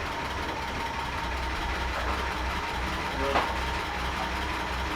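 Willys Jeep engine idling with a low, uneven pulse, under a steady high whine, and a single sharp click about three seconds in.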